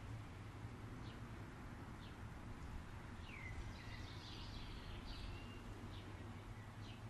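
Birds giving scattered short chirps, several close together in the middle, over a steady low rumble.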